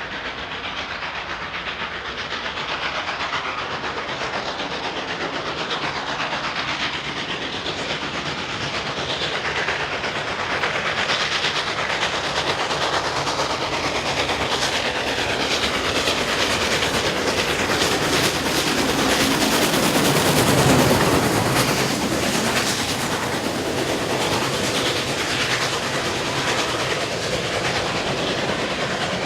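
A train passing close by, its wheels clattering over the rails, the sound building slowly to its loudest about twenty seconds in and then easing a little.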